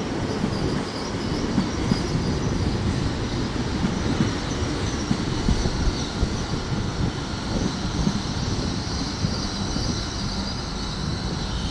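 A passing GWR multiple-unit passenger train: a steady rumble of wheels on the rails with a faint high whine.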